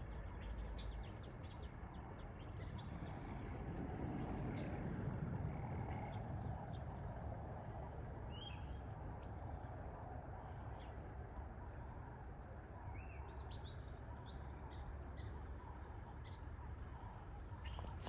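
Small birds chirping and calling on and off over a low background rumble, with one louder call about thirteen seconds in.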